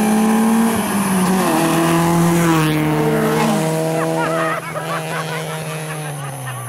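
Two compact race cars, a Mitsubishi Mirage and a Mazda Protegé, accelerating hard in a street drag race. Their engines run at high revs, the pitch steps down as they pull away, and the sound drops off about four and a half seconds in.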